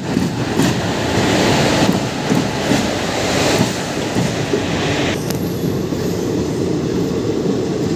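Indian Railways ICF passenger train running at full speed: a loud rushing rumble of steel wheels on rail with irregular clicks over the rail joints. About five seconds in the hiss drops off sharply, leaving the deeper rumble.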